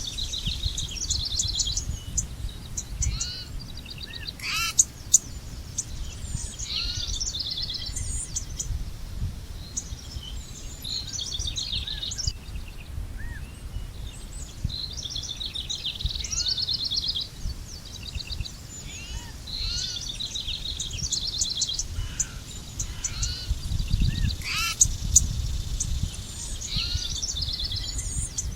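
Several songbirds singing and calling in overlapping chirps and quick trills, over a steady low rumble, with a few sharp clicks about five seconds in and near the end.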